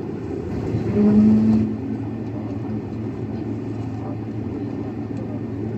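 Airliner cabin noise: a steady low rumble and whir of the aircraft's engines and air systems heard from a passenger seat. A short, louder pitched hum rises briefly about a second in.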